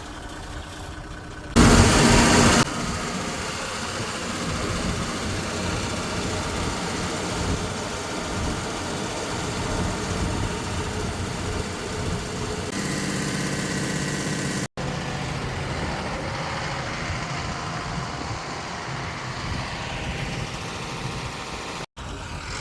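Truck's diesel engine idling steadily while it builds vacuum after a vacuum-leak repair. A loud burst lasting about a second comes about a second and a half in.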